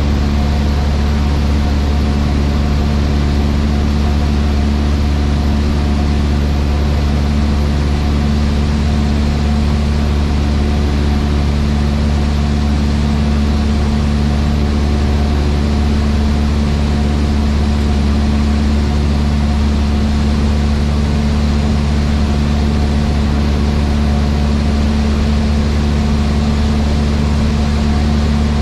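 Cessna 152's four-cylinder Lycoming O-235 engine and propeller running at a steady speed, heard from inside the cockpit.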